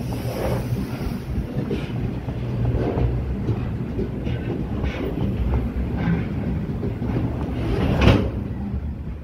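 Freight train hopper wagons rolling past at close range: a steady low rumble of wheels on rail with irregular knocks and clanks, the loudest about eight seconds in.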